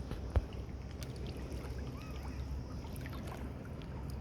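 Fast-flowing freshwater stream running steadily, with a single sharp knock about half a second in.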